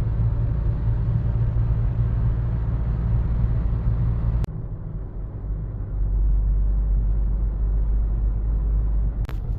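Steady low rumble of a 2024 Hyundai Tucson being driven. About halfway through it cuts off abruptly with a click and carries on as a duller, deeper rumble. A few short clicks come near the end.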